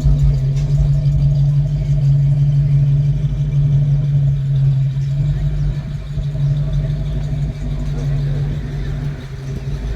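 Car engine idling with a steady low hum, dropping away near the end.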